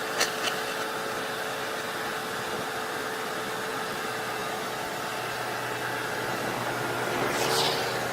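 Engine of a JCB backhoe loader running steadily, a continuous hissing drone with a low hum. Two short clicks come just after the start, and a brief whoosh about seven and a half seconds in.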